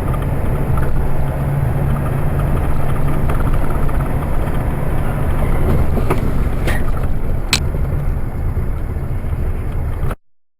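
Steady running noise of a moving vehicle: a low rumble with a level hum, and three short sharp clicks between about six and seven and a half seconds in. The sound cuts off abruptly near the end.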